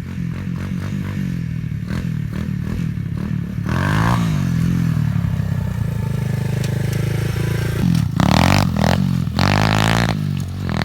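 Small single-cylinder pit bike engine running, revved up about four seconds in, its note then falling away over the next few seconds, with more hard revs near the end.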